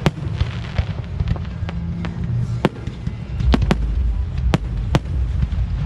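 Aerial fireworks exploding: about eight sharp bangs at irregular intervals over a low rumble that swells about three and a half seconds in.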